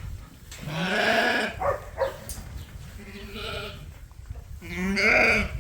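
Sheep bleating: three wavering calls, the last one the loudest.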